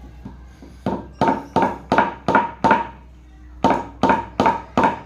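Hammer tapping on metal, about three blows a second in a run of six, a pause, then another run; each blow rings briefly.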